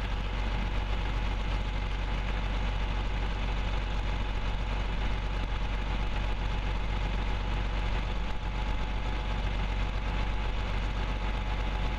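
An engine running steadily at constant speed, with no revving.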